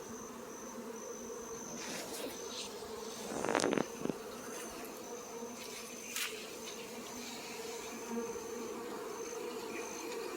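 A swarm of honeybees buzzing in a steady hum. One short louder sound comes about three and a half seconds in, and a click comes near six seconds.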